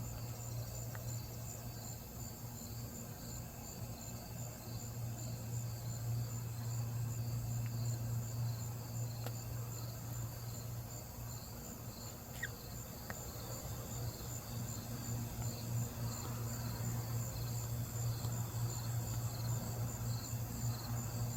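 Crickets chirping outdoors at night in a steady, evenly pulsed rhythm, over a steady low hum.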